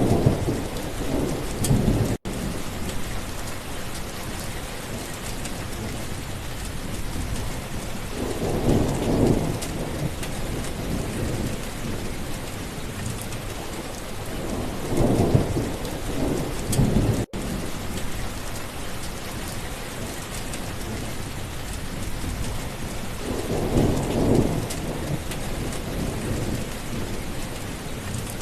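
Steady heavy rain with thunder rumbling four times, about every seven to eight seconds. The sound cuts out for an instant twice.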